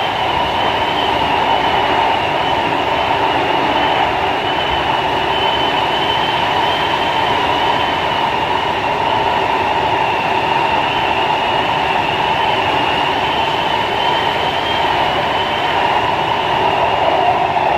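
Kawasaki C151 metro train heard from inside the car while running: a steady rumble of wheels on the track with a high, slightly wavering whine on top. Near the end the lower part of the whine drops in pitch.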